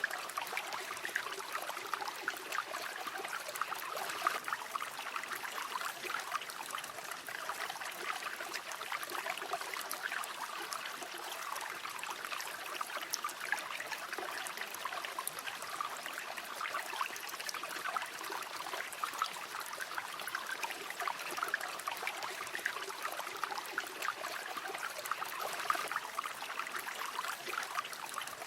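A flowing river, water running steadily with a fine babbling and trickling texture.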